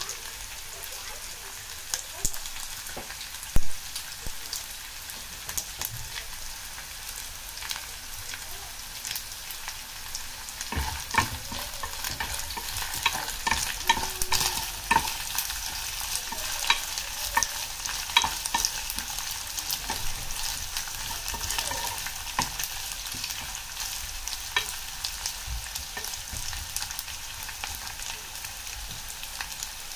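Dried anchovies sizzling and crackling in hot oil in a pan: a steady hiss full of small pops. Through the middle stretch a wooden spatula stirs them, with louder scraping and clatter. A single sharp knock comes about three seconds in.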